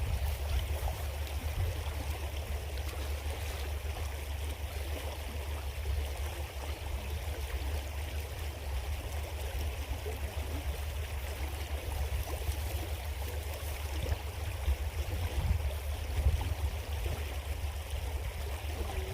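Creek water flowing and trickling steadily, with a constant low rumble underneath.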